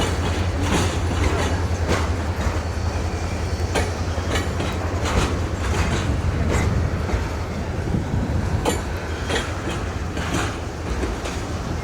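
Train rolling along the track, its wheels clicking irregularly over rail joints above a steady low rumble.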